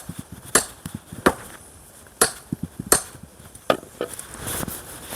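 Axe striking a thick, unseasoned pine log, about six sharp wooden knocks in quick succession. The green wood resists splitting and grips the axe head.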